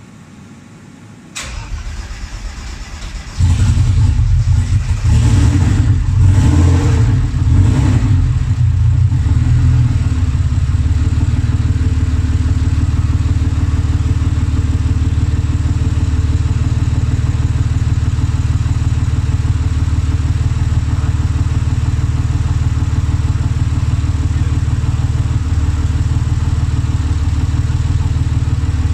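Turbocharged Mercedes M104 straight-six cranking on the starter for about two seconds, then catching and running with several surges before settling into a steady idle about ten seconds in. This is the first start of a newly built engine.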